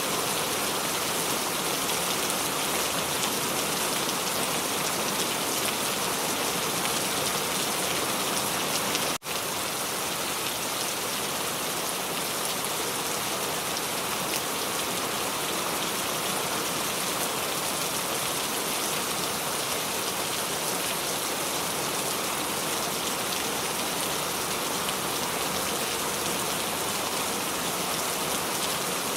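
Recorded rain falling steadily, a dense even hiss of drops on surfaces. There is a momentary dropout about nine seconds in, after which the rain carries on at the same level.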